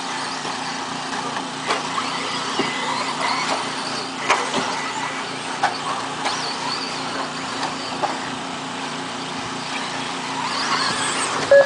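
Electric RC race trucks running laps on a track: several motors whining, rising and falling in pitch with the throttle over a steady hiss. Scattered sharp clicks and knocks come from landings and hits.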